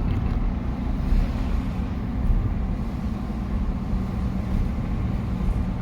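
Steady road and engine rumble heard from inside a moving vehicle.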